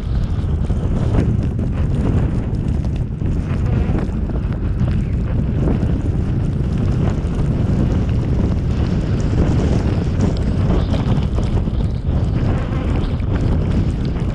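Steady low rumble of wind buffeting the microphone, mixed with the road and engine noise of a car driving through a snowstorm.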